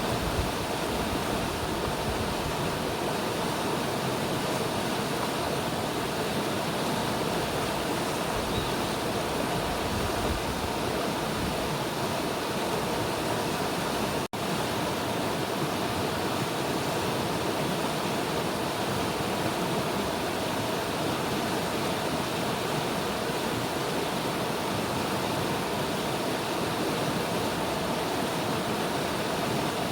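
River water rushing in a steady, dense wash of noise, with a split-second break about halfway through.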